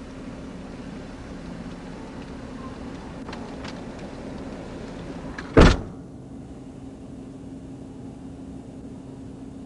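Steady low hum of a vehicle cabin, with a single loud car-door slam a little past halfway through, after which the outside hiss is shut out.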